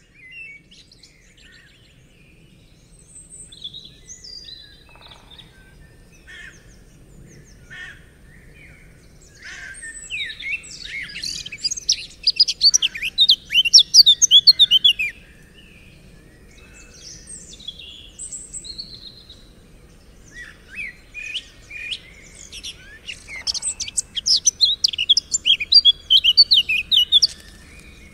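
Songbirds chirping and singing, with two long bursts of rapid twittering song, one about a third of the way in and another near the end, over a faint steady low background hum.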